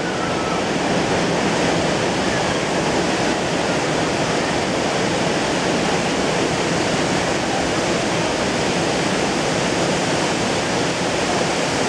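Waterfall rushing: a steady, loud roar of falling water with no change.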